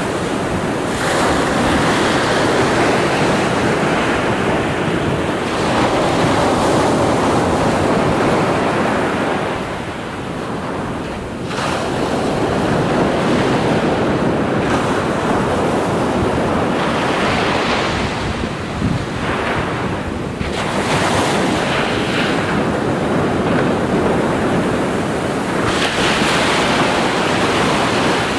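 Ocean surf rushing and washing in continuous swells, easing briefly twice before building again.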